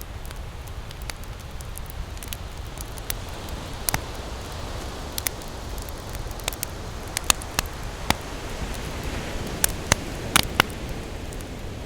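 Wood campfire crackling, with frequent sharp pops that are loudest in the second half, over a steady hiss and low rumble of ocean surf.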